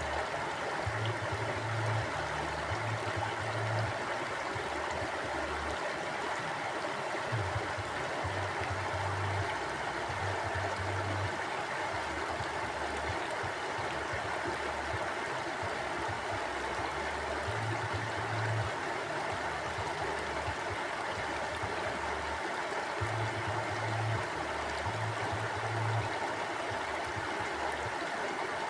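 A river flowing: a steady rush of running water with no breaks, and a low rumble that comes and goes underneath every few seconds.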